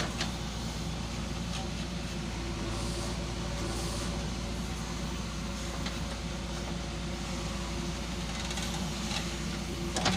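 Diesel engine of a tractor or backhoe loader running steadily at a constant speed.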